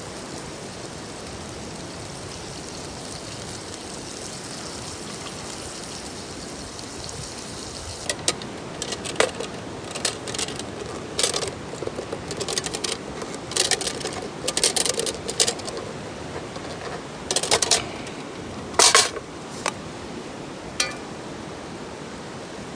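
Metal cookware and utensils being handled over a steady background hiss. Starting about eight seconds in, there are some thirteen seconds of irregular sharp clinks and clatters, a few of them ringing briefly, then a last single clink.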